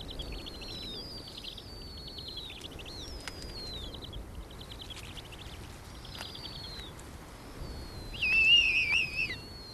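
Birds calling: a repeated series of high, falling whistles, each with a quick trill beneath it. About eight seconds in a louder, wavering high call lasts about a second.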